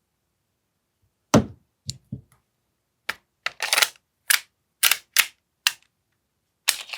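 AAP-01 gas blowback airsoft pistol fired in single shots: about ten sharp snaps, unevenly spaced, with quiet between them, as a magazine is tested for a gas valve problem.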